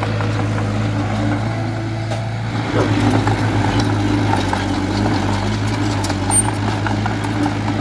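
Heavy earthmoving machine's diesel engine running steadily, working a little harder about three seconds in, with a few faint metallic clicks.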